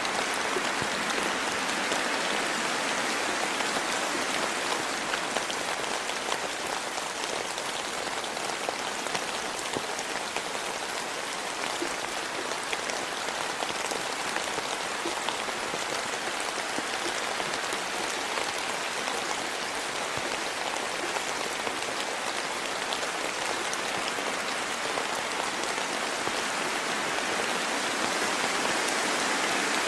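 Steady rain falling, a dense patter of many small drops hitting the ground and foliage.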